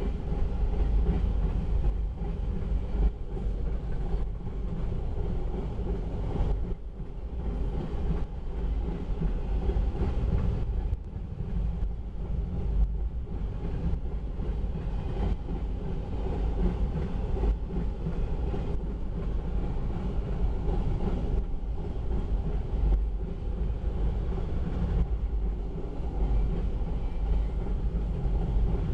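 A long train of autorack freight cars rolling steadily past on the rails, a continuous low rumble of wheels with a few faint knocks.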